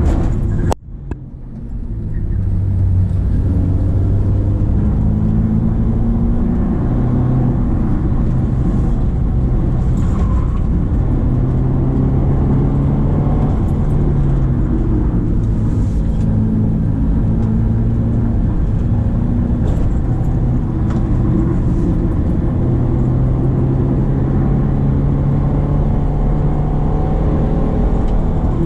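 Subaru Impreza XV 2.0's four-cylinder boxer engine pulling uphill, its note rising and falling with the revs. About a second in, the sound drops away briefly, then builds back up.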